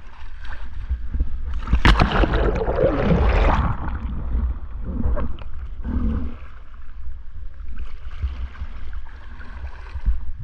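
Water splashing and sloshing as a kayak is rolled over and back upright with the paddle, loudest about two seconds in, with smaller splashes later. A steady low rumble runs underneath.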